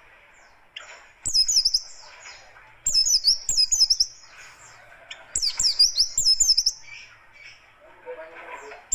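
Pleci buxtoni white-eye singing in fast, rough chattering bursts of rapid high chirps, three bursts about a second long each, separated by short pauses.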